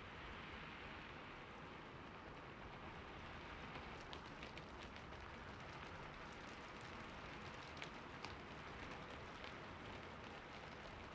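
Steady rain falling on a roof, a soft even hiss with many scattered sharp drip ticks and patters.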